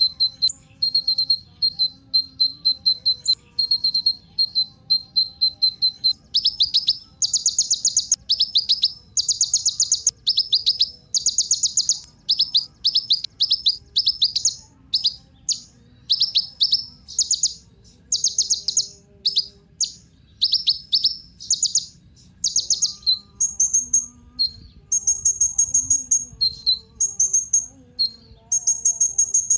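Kolibri ninja sunbird singing. It starts with a run of thin, high repeated notes, then about six seconds in switches to quick bursts of rapid falling notes, and near the end gives higher, drawn-out notes.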